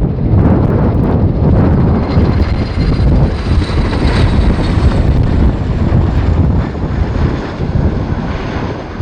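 RAF Boeing Chinook HC.6 tandem-rotor helicopter flying a display pass: heavy rotor blade slap with a high turbine whine over it. The sound is loudest about four seconds in and eases off toward the end.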